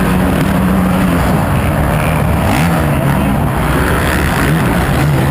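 Motocross bike engines running, their pitch rising and falling as the throttle opens and closes.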